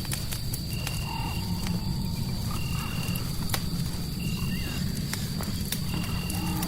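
Mixed ambience: a crackling fireplace gives scattered sharp pops over a steady low rumble of fire and white noise. Over it, a short, even, high chirp repeats about every second and a half, and a thin steady high tone holds throughout, as from night frogs or insects.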